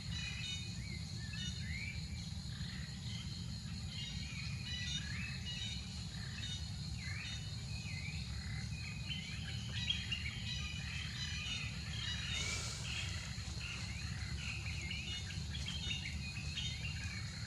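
Small birds chirping in quick, repeated short calls over a steady low hum, with a brief rustle about twelve seconds in.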